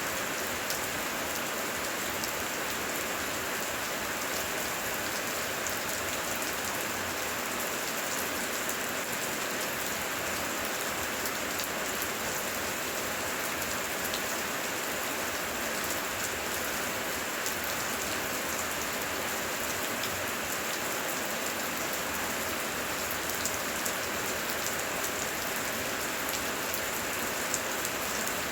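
Heavy rain falling steadily, with many individual drops pattering and ticking sharply over a constant hiss.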